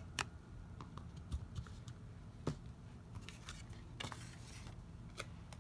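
Card stock and paper being handled on a craft table: scattered light clicks and taps, with a brief rustle about four seconds in.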